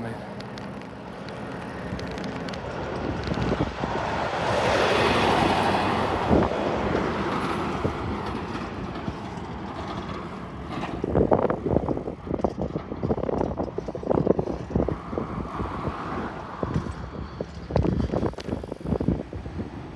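A truck passing by, its noise swelling to a peak about five seconds in and then fading away. After it, a run of irregular knocks and rattles.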